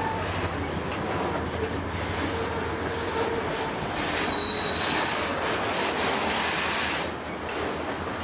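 A train rolling on track, with a steady rumble of wheels and cars and a short, high wheel squeal about four seconds in.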